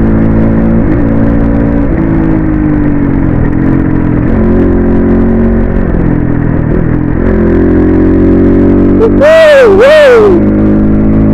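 Vehicle engine running on the move, its pitch shifting up and down a few times. Near the end come two loud tones, each rising and then falling in pitch.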